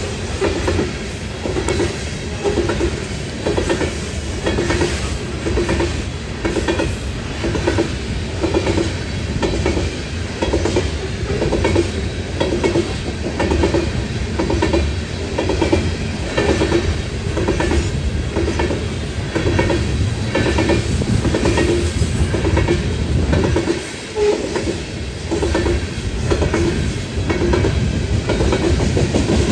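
BNSF coal train's cars rolling past, the wheels clacking over the rail joints in a steady rhythm a little more than once a second.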